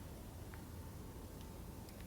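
A campfire burning down to its last embers: a few faint, sparse crackles over a low, steady rumble.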